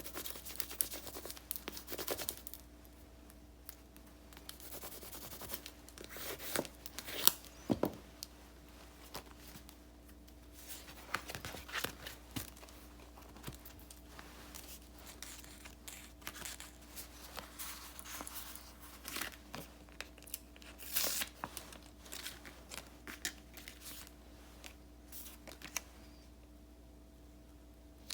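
Stickers being peeled from their backing sheets and paper being handled: irregular crinkles, rustles and small peeling and tearing sounds, pausing briefly near the end.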